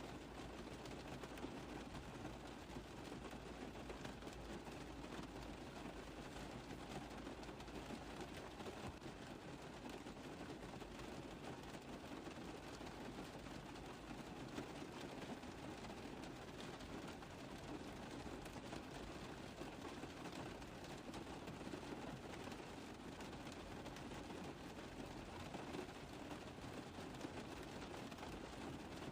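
Rain tapping on a car roof: a steady, dense patter of many small drop impacts.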